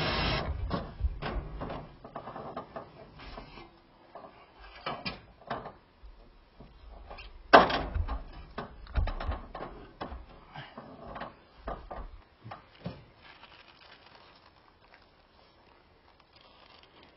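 Irregular knocks and clatter from hands-on building work, with one sharp bang about seven and a half seconds in, thinning out over the last few seconds. A power tool stops just at the start.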